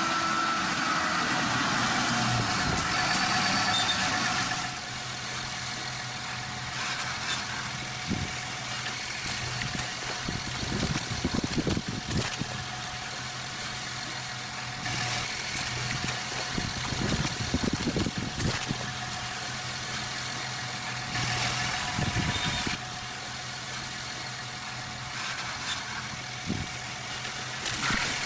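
A motor engine running steadily with a constant hum, rising briefly in a few louder, rougher surges.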